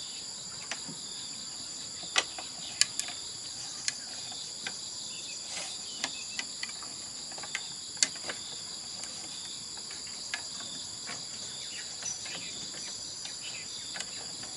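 Insects chirring in a steady, high-pitched drone, with scattered sharp knocks or clicks at irregular intervals, the loudest a few seconds in and again about eight seconds in.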